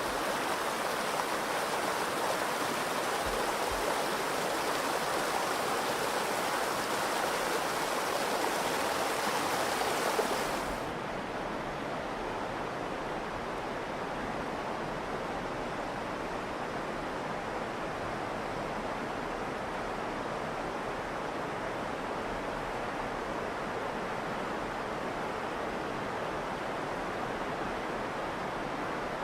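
The Virgin River flowing steadily in the Narrows. About a third of the way through, the sound changes abruptly to a duller, slightly quieter flow.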